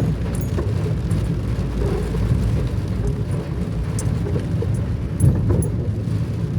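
Rain falling steadily, with scattered sharp drop ticks over a constant low rumble.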